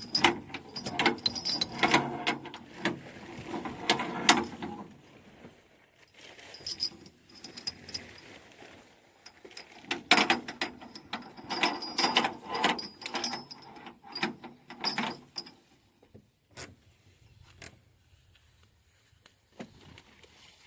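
Heavy steel tow chain clinking and rattling as it is handled and hooked up, in two busy bursts of clatter with a quieter stretch between them.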